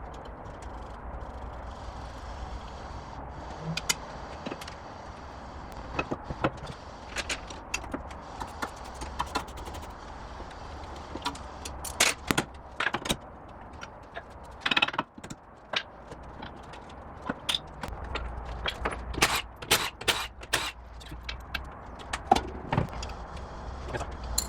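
Metal hand tools clinking and knocking irregularly on a car's rear suspension and brake hardware while it is being dismantled, over a low steady hum.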